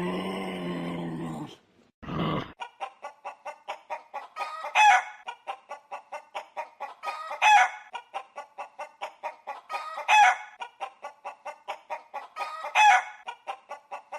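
A hen clucking in a fast, even run, with a louder squawk about every two and a half seconds, like a hen's cackle. It is preceded at the start by a different, drawn-out animal call lasting about a second and a half.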